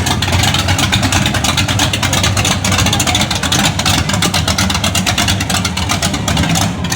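A car engine running at idle close by, with fast, uneven exhaust pulses.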